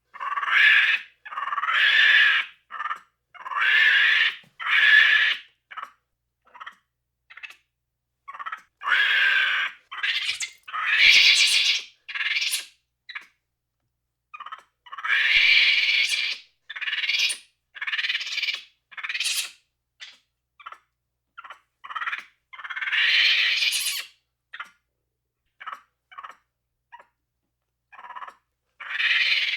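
A series of short, high-pitched animal calls, each lasting under a second, separated by gaps of silence.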